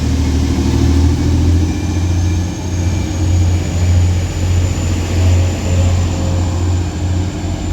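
Two coupled class 185 diesel multiple units pulling away, their underfloor diesel engines under power with a loud, steady low drone. A faint high whine rises slowly from about two seconds in.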